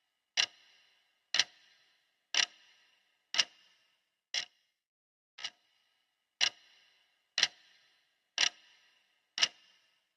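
Clock ticking sound of a countdown timer, one sharp tick each second. Most ticks carry a short ringing tail, while a pair in the middle are shorter and drier.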